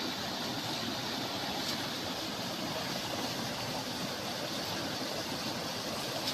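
Water flowing in a steady, even rush.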